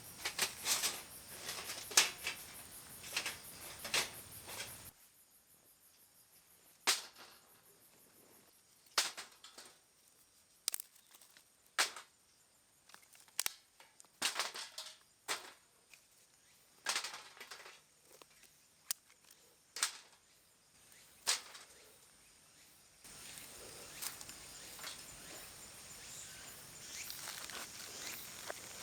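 Irregular sharp knocks and clicks, roughly one a second, over a steady high insect drone that drops away after about five seconds and returns near the end.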